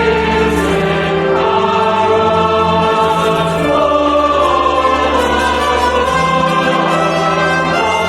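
Choir singing with instrumental accompaniment, in long held chords over sustained bass notes.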